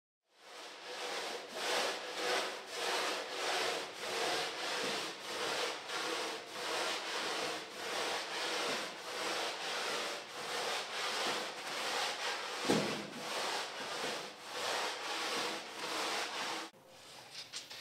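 A hand tool worked back and forth on wood in a steady rhythm of about two strokes a second, with a single knock about three-quarters of the way through; the strokes stop abruptly near the end.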